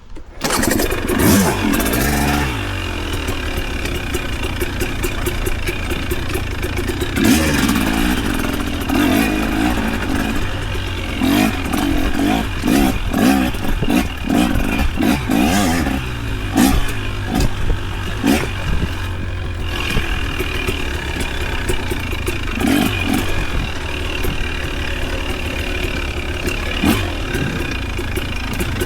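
An off-road vehicle's engine starting up just after the start, then running with repeated revs rising and falling and some rattling knocks.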